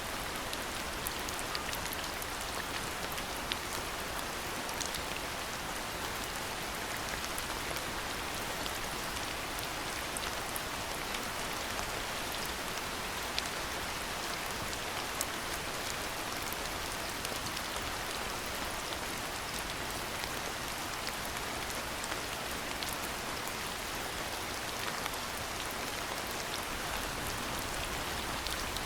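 Steady rain falling, an even hiss dotted with many sharp, scattered drop ticks.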